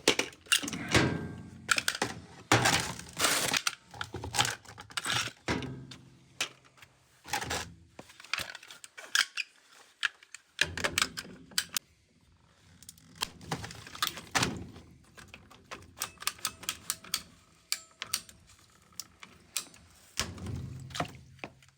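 Irregular clicking, tapping and knocking of tools and metal parts being handled, with a few heavier thunks and short pauses between them.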